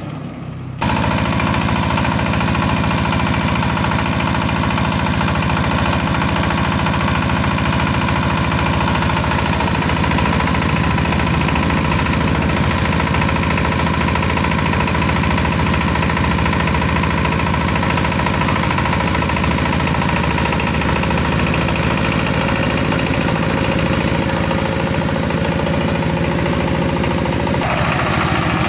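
Engine of a freshly repaired rice threshing machine running steadily on a test run. It comes in abruptly about a second in and holds an even running tone, which shifts slightly near the end.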